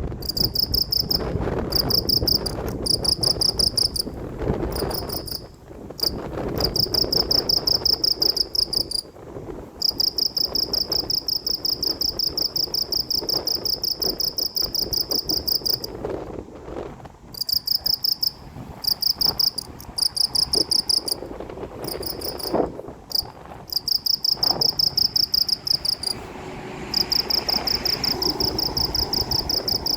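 Crickets chirping in long, rapidly pulsing high-pitched trills, broken by short pauses, over a low steady rushing background.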